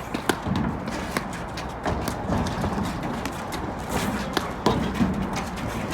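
Repeated sharp knocks and taps, several a second and irregular: a ball being hit back and forth and players' feet moving during a doubles rally on a court.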